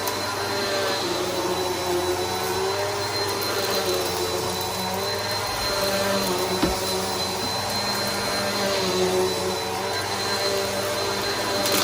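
Bissell PowerForce Helix upright vacuum running steadily, with a high whine over the motor's hum. The motor's tones waver slightly in pitch, and there is one light knock partway through.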